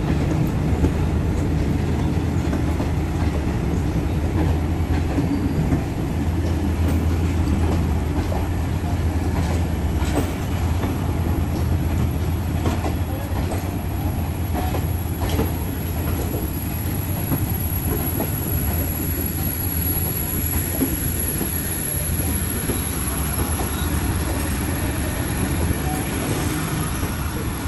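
Train running on the rails: a steady low diesel locomotive drone with wheels clicking over rail joints, the clicks thickest in the middle stretch.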